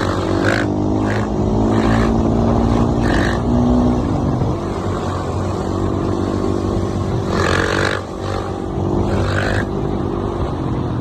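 Dirt bike engine running under throttle, its pitch climbing over the first few seconds, dropping off, then rising again about seven seconds in, with short rushes of noise over it.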